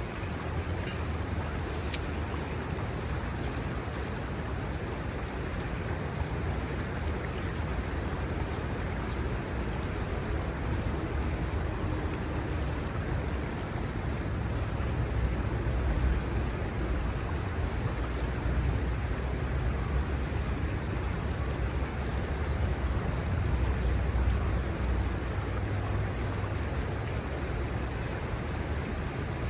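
Kamo River water flowing steadily, an even rushing hiss, with a low rumble underneath that swells and fades.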